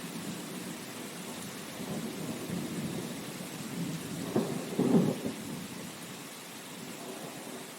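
Steady rain hiss with low rolls of thunder; the loudest rumble swells up about four and a half seconds in and dies away near the end.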